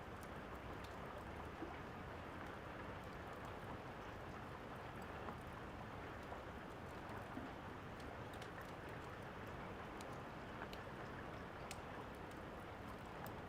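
Steady rain falling, with scattered small pops and crackles of a wood fire.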